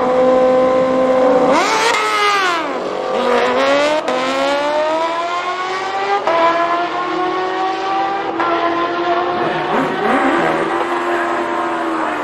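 High-revving racing engines at full throttle during a drag run. Their pitch sweeps up and drops about two seconds in, then climbs steadily for several seconds as they pull hard, with a second engine's note mixed in near the end.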